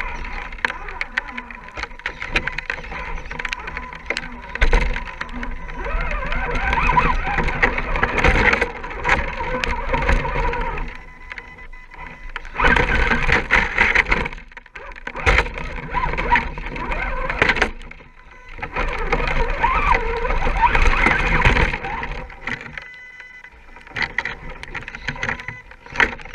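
Electric RC scale rock crawler's motor and geared drivetrain whining in bursts of a few seconds as it drives and climbs, with short pauses between.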